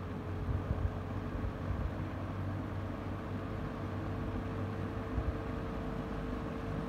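Late-1970s Lasko model 4746 20-inch box fan running steadily: a rush of air over a low hum, with a steady motor whine described as a pretty good one.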